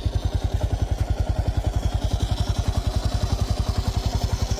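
Custom-built motorcycle engine running at a steady idle, an even beat of about ten firing pulses a second.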